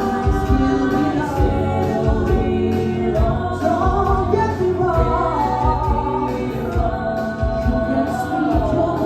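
Live pop-rock band playing with several voices singing together over a steady drum beat.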